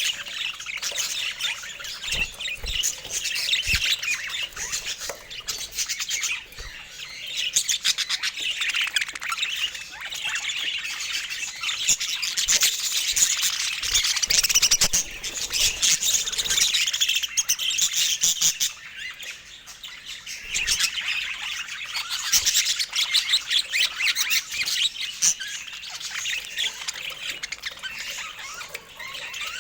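Budgerigars chattering and warbling without pause, a dense stream of rapid chirps and squawks.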